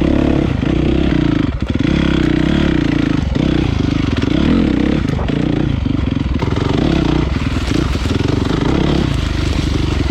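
Honda CRF450 dirt bike's single-cylinder four-stroke engine running loud through an HGS aftermarket exhaust under riding load, its note rising and falling with the throttle, with a brief sharp drop about one and a half seconds in.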